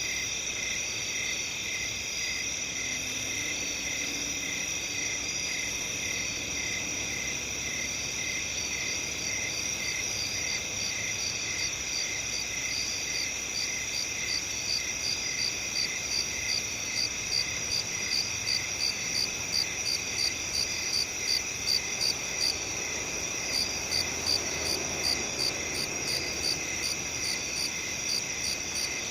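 A chorus of crickets trilling steadily at several high pitches. About halfway through, one cricket's chirping comes forward in an even pulse of about two chirps a second, pausing briefly near the end.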